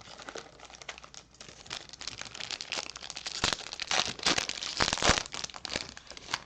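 Crinkling and tearing of a sports-card pack's foil wrapper as it is opened, with dense crackling that is busiest and loudest around the middle.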